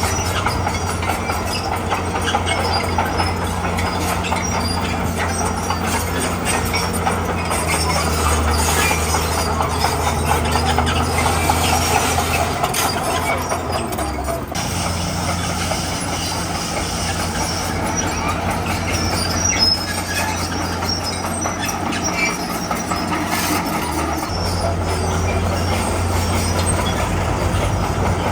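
Komatsu crawler bulldozer working: its diesel engine runs steadily under a dense clatter of its steel tracks, easing briefly about halfway through.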